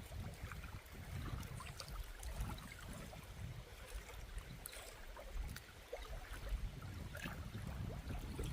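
River water running and trickling, with an uneven low rumble underneath.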